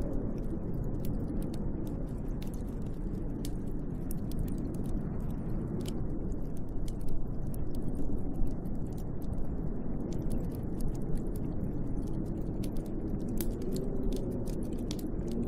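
Snowstorm wind blowing against a window, a steady rushing with a low howl that wavers up and down in pitch, over a scatter of small ticks and crackles.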